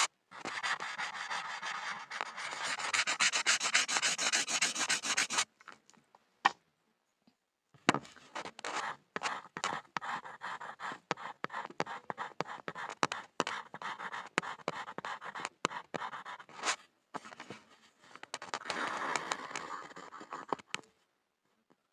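Pencil scribbling on a board: fast continuous scratching strokes, a pause of about two seconds with a single tap, then quicker and slower strokes resuming, with another dense run of scribbling near the end.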